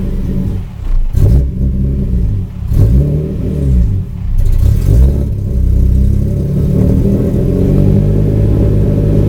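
Subaru EG33 3.3-litre flat-six, swapped into a 1994 Impreza, revved in several uneven swells that rise and fall, with a couple of sharp cracks about one and three seconds in. It then settles to a steadier note for the last few seconds. The engine is struggling to rev and sputtering as if it isn't firing on all cylinders, which is the intermittent misfire and hesitation the owner is chasing.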